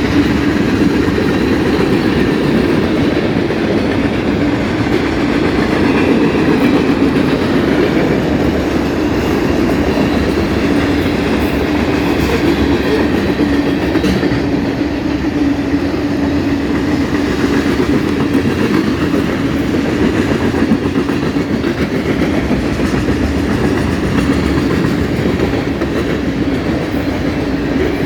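Cars of a mixed freight train rolling past: a loud, steady noise of steel wheels on the rails with a constant hum.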